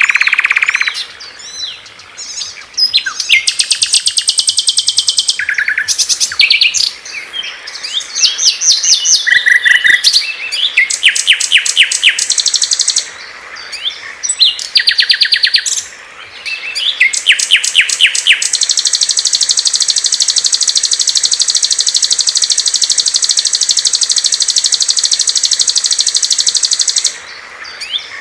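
Songs of various small songbirds spliced one after another: rapid chirps, trills and buzzy high phrases that switch abruptly every few seconds, then one long steady high trill lasting about nine seconds near the end.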